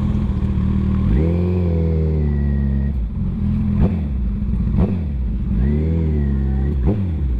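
Motorcycle engine running at a steady low idle, revving up twice, about a second in and again about five and a half seconds in, each time rising in pitch, holding briefly and dropping back. A few short clicks are heard between the revs.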